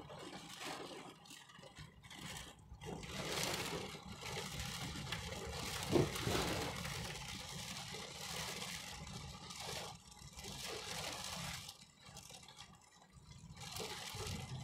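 Heavy rain on a car's roof and windows heard from inside, swelling and easing in gusts, with one brief louder bump about six seconds in.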